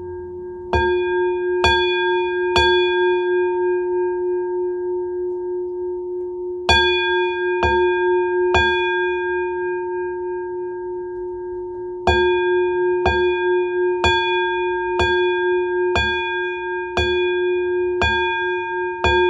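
A single bell struck over and over at the same pitch, each stroke ringing on long after. It sounds three strokes, pauses, three more strokes, pauses again, then strikes steadily about once a second.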